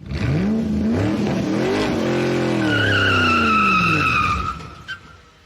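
A car engine revving up twice and then dropping away, with a tyre squeal that begins midway and fades as the revs fall. A short click follows near the end.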